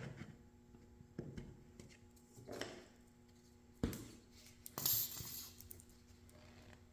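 Scattered knocks and clinks of small hard objects being handled and set down, with a sharp tap about four seconds in and a short scraping rustle just after, over a faint steady hum.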